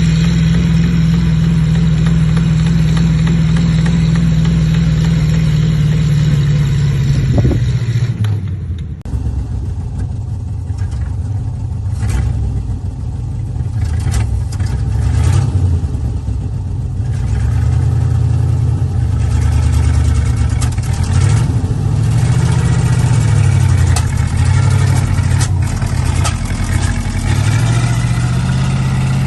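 Truck engine running at a steady speed, then, after an abrupt change about nine seconds in, running with its speed rising and falling, with scattered knocks and clatter.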